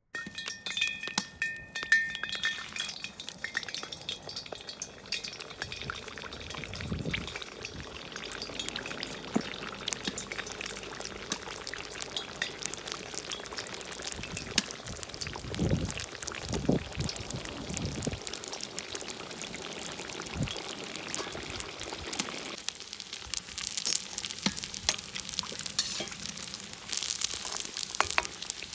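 Hot oil sizzling in a kazan as chebureki deep-fry: a steady crackling hiss full of small spitting pops. A few dull low knocks come in the middle as the pan and pastries are handled.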